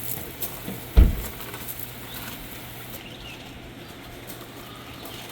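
A single low thump about a second in, followed by a faint steady hum and a few light clicks.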